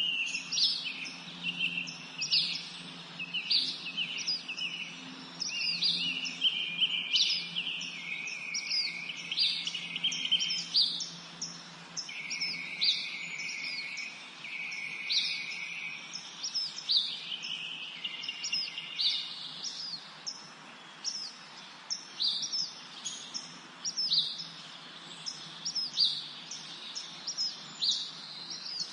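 Songbirds singing and chirping in a spring forest chorus: many short, high, downward-sweeping notes repeated throughout, with longer, lower trills in the middle.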